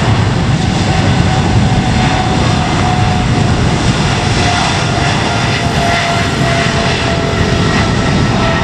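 Boeing 777-300ER's GE90-115B jet engines running at takeoff power: a loud, steady noise with a faint whine that slowly drops in pitch.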